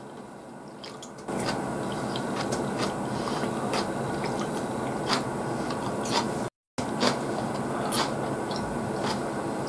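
Close-up chewing of raw tuna sashimi: many small wet mouth clicks and smacks over a steady background hiss that comes in about a second in. The sound drops out completely for a moment about two-thirds of the way through.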